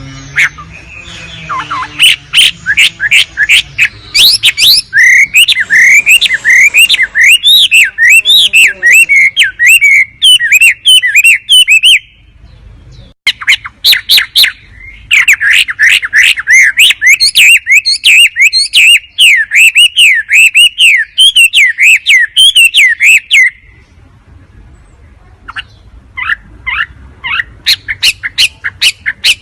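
Recorded song of the wambi bird: fast chattering phrases of sharp clicking notes over rapid warbling whistles that rise and fall. There are three long phrases with short pauses between them.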